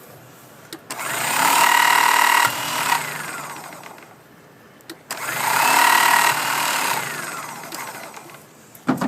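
Mighty C powered stone trimmer running twice as it trims stone, each run lasting about two seconds, with a whine that rises and then falls. A sharp knock near the end.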